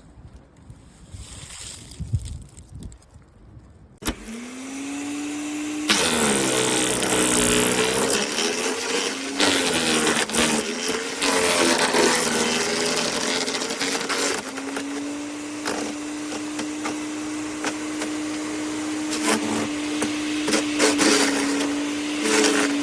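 LawnMaster FD1503 15-amp electric wood chipper shredder switched on about four seconds in, its motor whine rising to speed. Branches are then fed through with loud crunching and shredding, and the motor's pitch sags and recovers under the load. From about halfway the motor runs at a steady whine with scattered knocks of material.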